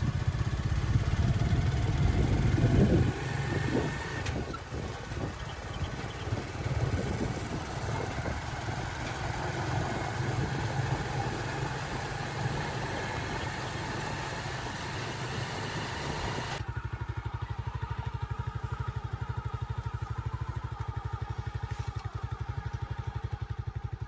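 A small engine running. About two-thirds of the way through, the sound changes abruptly to a steady, rapid, even pulse, as of an engine idling.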